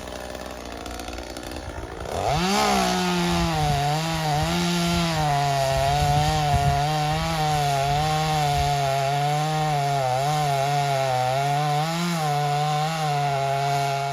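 Two-stroke chainsaw running low, then revved to full throttle about two seconds in and held there, its pitch wavering slightly under load as it cuts into a dead cherry tree's wood.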